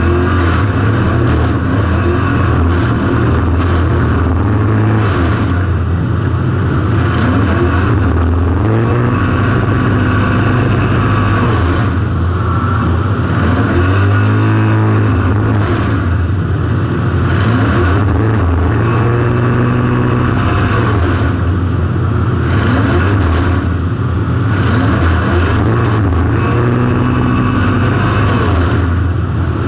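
Car engine picked up by a camera mounted on the car, running hard and continuously, its pitch repeatedly rising and falling as the throttle is worked on and off.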